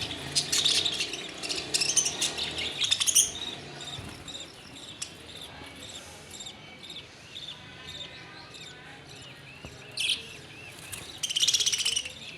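Birds chirping and calling: rapid, dense twittering for about three seconds, then a long series of short repeated arching notes, with loud bursts of chirping about ten seconds in and again near the end.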